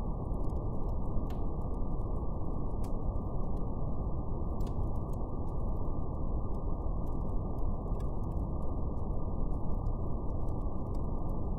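Steady brown noise, a deep even rush with nothing above the low-mid range, and a faint crackle of a fire ticking now and then over it.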